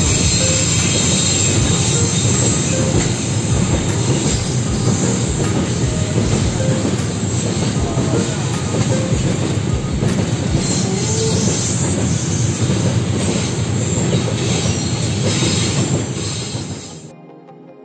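Freight train of tank wagons rolling past close by: a steady rumble of steel wheels on rail, with irregular clacks as the wheels cross rail joints and a few brief wheel squeals. It cuts off sharply near the end.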